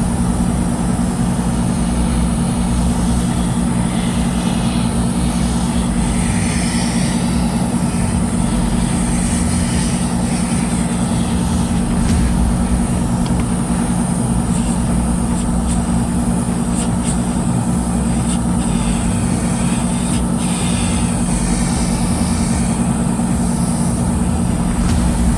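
A steady, loud low mechanical drone with a constant hum, without breaks or changes in level.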